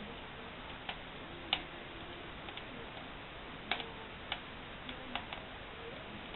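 Wood fire crackling in a mangal fireplace: sharp pops at irregular intervals over a steady hiss.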